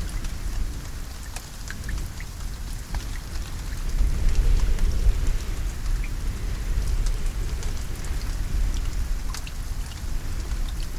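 Steady rain with individual drops pattering on a surface, over a deep low rumble, swelling slightly about four seconds in.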